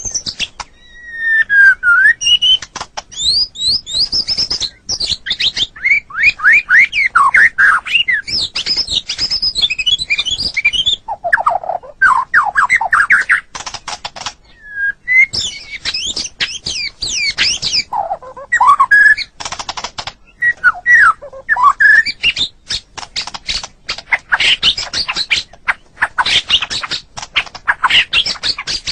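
White-rumped shama singing a long, varied song: fast runs of whistled notes sweeping up and down in pitch, mixed with sharp clicking, chattering notes, with only brief pauses between phrases.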